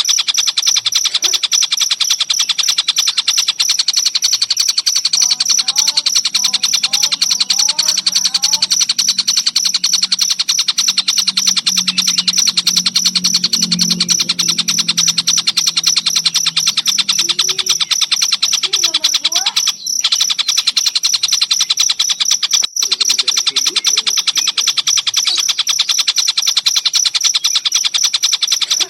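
Cricket chirping in a fast, steady, high pulsing trill, broken by two brief cut-outs about twenty and twenty-three seconds in.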